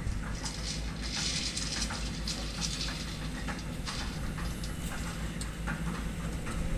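Excavator diesel engine running steadily, with hissing and scattered sharp metallic clanks of steel being handled.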